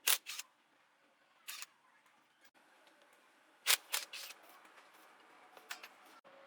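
Short sharp clacks of hand tools being handled in a workshop: two near the start, one about a second and a half in, a quick run of three about four seconds in, and a lighter pair near the end.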